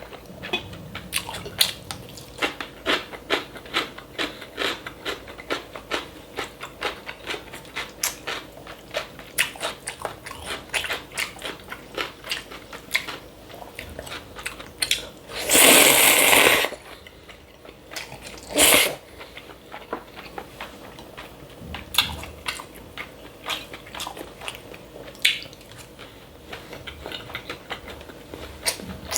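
Close-miked eating: quick, wet chewing and crunching clicks run throughout. About halfway through comes a loud slurp lasting about a second, then a shorter one a few seconds later, typical of slurping cold buckwheat noodles.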